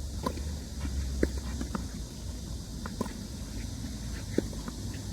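A few irregular light taps and knocks on a tennis court between points, such as footsteps and tennis balls touching the ground or a racket, the sharpest about a second in, over a steady low rumble.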